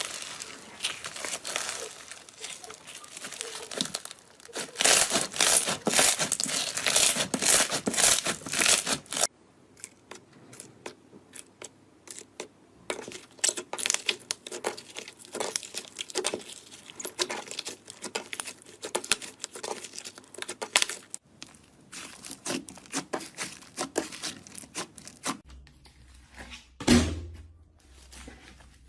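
Crisp, crunchy material being crushed and torn by hand, a dense run of crackles that is loudest a few seconds in, then breaks off into sparser crackling. Near the end comes a single heavy thump.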